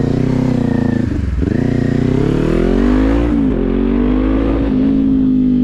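Kawasaki Z400's 399 cc parallel-twin engine under way: the revs dip about a second in, climb steadily, fall back about three and a half seconds in, then hold steady.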